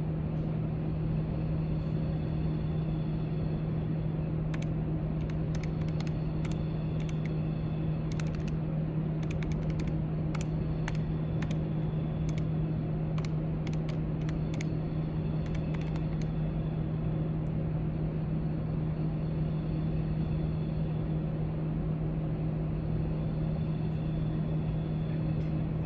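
Library background noise: a steady low hum over a broad rumble, with a scattered run of light clicks through the middle.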